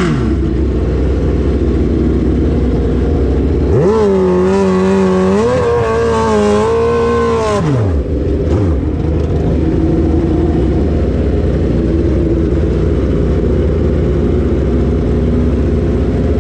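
Drag-racing motorcycle engine (Suzuki Hayabusa) revved up about four seconds in, held high for a few seconds and then let fall back, over a loud steady rumble; a high engine note drops away at the very start.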